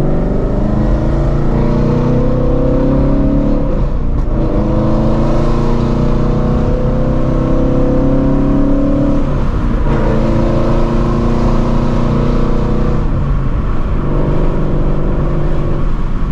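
Straight-piped 2016 Shelby GT350's 5.2-litre flat-plane-crank V8, with long-tube headers, accelerating away from a green light. It pulls through the gears, its pitch rising in each gear and dropping at upshifts about four, ten and thirteen seconds in, with another shift near the end.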